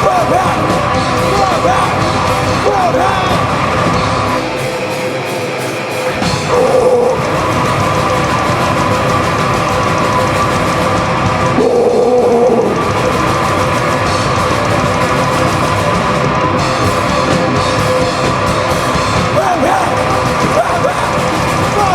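Live rock band playing loudly. Around four seconds in the bass and drums drop out for about two seconds, then the full band comes back in.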